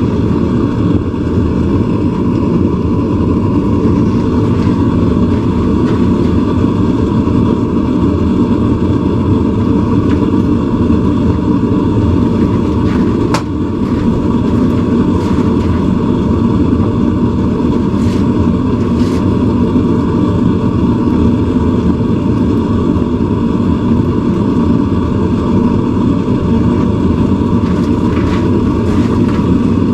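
Forge burner running with a steady, even rush of noise, with a few short metallic clicks.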